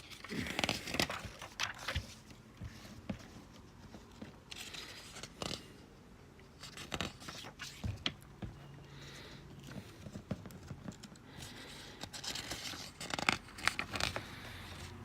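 Paper pages of a 1970 collectors' catalog being turned and handled: irregular rustling and crinkling with a few light taps.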